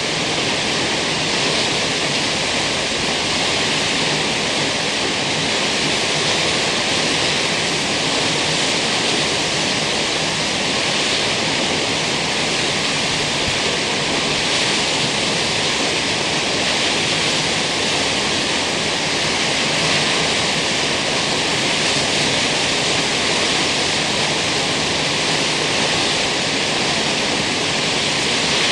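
Kegon Falls, a tall waterfall, plunging into its basin: a loud, steady rush of falling water.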